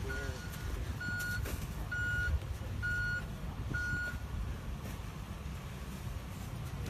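Ambulance's reversing alarm beeping at one steady pitch, about once a second, over the low rumble of its engine. The beeps stop after five, about four seconds in, and the engine keeps running.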